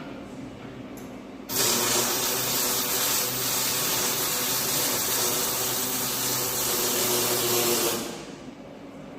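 Welding arc burning steadily on a steel chassis frame: a loud, even crackling hiss with a faint hum under it. It starts abruptly about a second and a half in and stops after about six and a half seconds, one continuous weld run.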